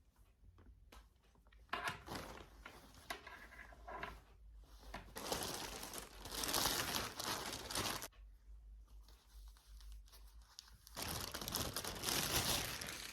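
Crinkling and tearing of something being handled, in three bursts: a short one about two seconds in, a longer louder one in the middle, and another near the end.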